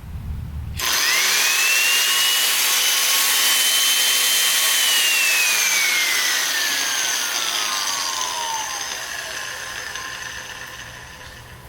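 Restored 1950s Black & Decker grinder/sander switched on about a second in, its motor whining quickly up to speed with a steady rushing hiss. It runs at full speed for a few seconds, then is switched off and winds down with a long, falling whine that fades out.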